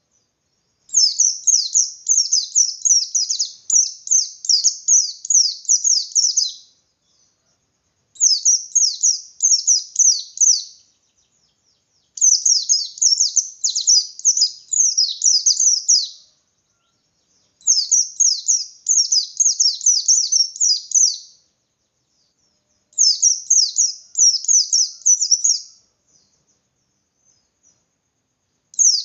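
Pleci (white-eye) singing in the 'ngalas' style: rapid, high-pitched twittering runs of quick downward-sweeping notes. It sings in bouts of three to six seconds with short pauses between, in full song with its beak open.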